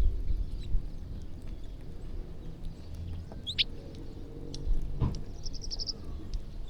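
Small birds calling while they feed: one sharp chirp sweeping down in pitch about halfway through, then a quick trill of about eight high notes, over a low rumble with a single thump about five seconds in.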